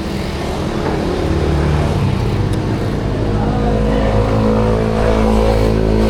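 A vehicle engine running with a steady hum that grows louder and clearer about halfway through.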